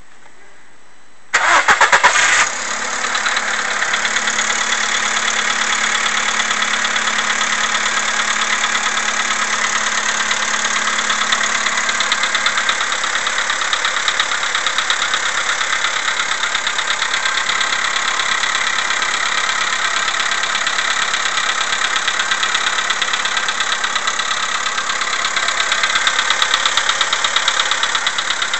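Volkswagen CFNA 1.6-litre four-cylinder petrol engine cold-started about a second in, then idling steadily with a fast, even knock: morning cold piston slap.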